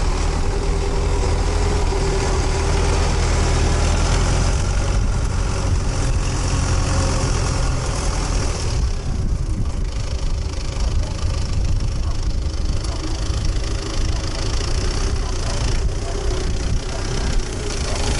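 MTZ tractor's diesel engine running steadily at low revs, with an even hiss over it.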